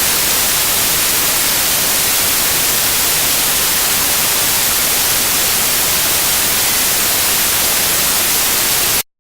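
Loud, steady static hiss, brightest in the treble, with no other sound in it; it cuts off suddenly near the end.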